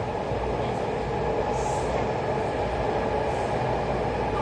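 Taipei Metro C381 train running, heard from inside the car: a steady rumble of wheels on rail with a low hum underneath.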